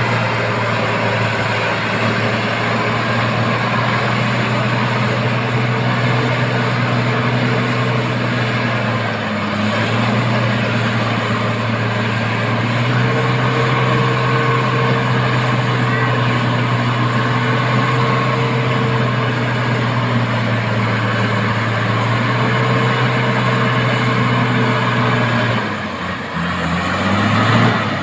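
Heavy truck's diesel engine running steadily at high revs under load, its note stepping up slightly about ten seconds in. Near the end the revs dip and climb again.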